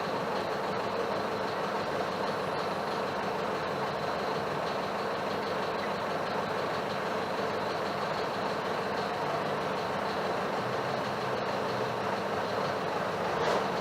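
Mercedes-Benz OF-1721 BlueTec 5 city bus running steadily, engine and cabin noise heard from inside the bus.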